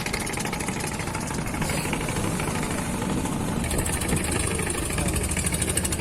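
Boat engine idling with a rapid, even knocking beat.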